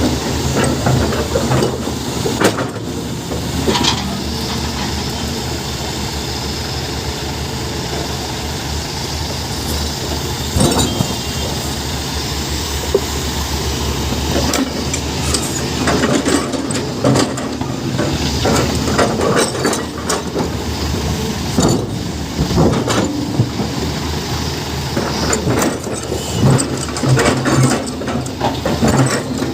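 Tata Hitachi excavator's diesel engine running steadily under load, with hydraulic hiss and irregular clanks and knocks from the bucket as it digs and dumps sand into a tipper truck.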